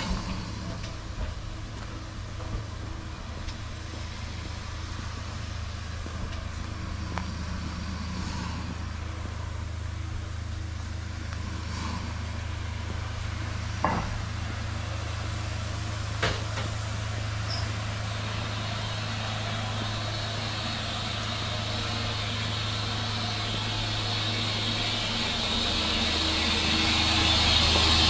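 An engine running steadily with a low hum. Two sharp clicks come about halfway through, and a hiss builds up over the last several seconds as the sound gets louder.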